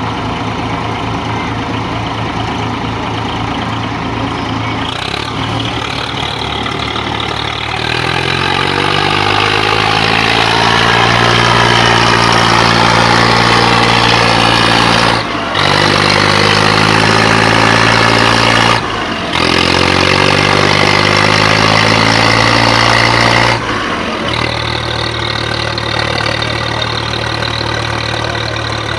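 Tractor diesel engines running, then revved up to high speed about eight seconds in and held there, with two brief breaks. Near the end they settle back to a lower speed.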